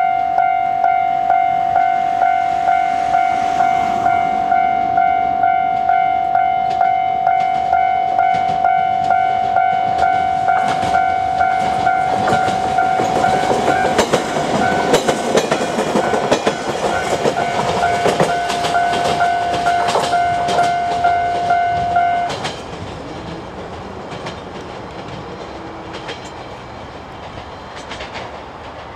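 A level-crossing warning bell rings steadily, about two strokes a second, while a JR Kyushu 819 series DENCHA battery electric train passes, its wheels clicking over the rail joints. The bell stops abruptly about 22 seconds in, and the train's running noise carries on more quietly as it moves away.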